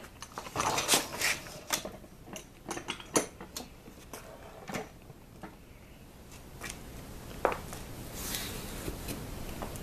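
Scattered light clicks and clinks of tableware being handled, thickest over the first few seconds, then a faint steady hiss sets in near the end.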